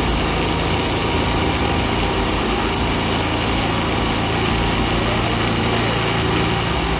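Yamaha Ray ZR scooter's single-cylinder four-stroke engine idling steadily, freshly rebuilt with a new cylinder, piston and rings.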